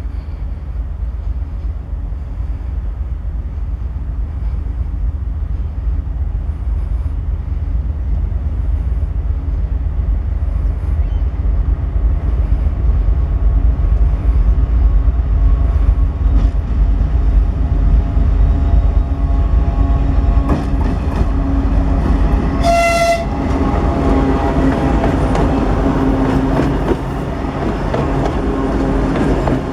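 Diesel locomotive passing close by, its engine rumble building in loudness. One short horn blast sounds about three-quarters of the way through, followed by wheels clicking over the rail joints.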